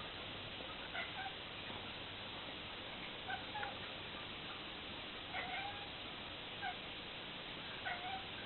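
Domestic cat giving a series of short chirping meows, some in pairs, every second or two: the 'bird meow' a cat makes when it is watching birds, here magpies.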